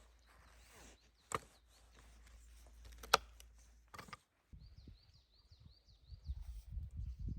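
Two sharp clicks, then a bird singing a run of about ten quick high chirps, followed by low bumping and knocking near the end.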